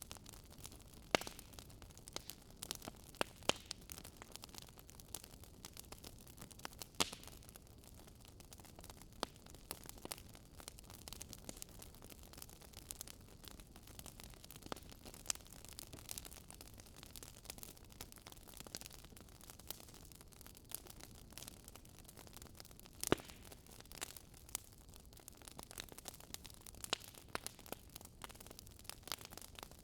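Fireplace fire crackling: irregular small snaps and pops over a faint steady hiss, with a few louder pops now and then.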